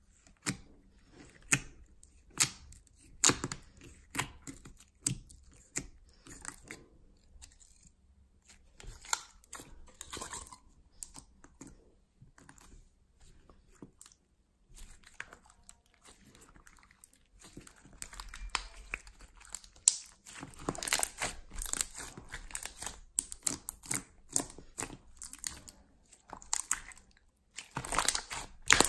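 Slime being handled: squished, stretched and pulled apart, with sharp pops and sticky crackling. The pops are sparse at first, it goes quiet in the middle, then thicker crackling and squishing fill the last third.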